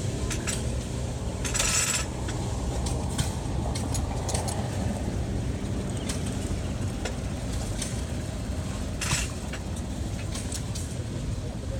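Old Minneapolis tractor engine running steadily, with light metallic clinks and rattles and two short hissing bursts, one near the start and one about three-quarters of the way through.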